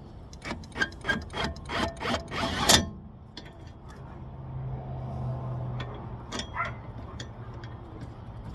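Hand tools snugging up the rear hub bolts: a run of irregular clicks and scrapes ending in one loud sharp burst, then a steady low hum.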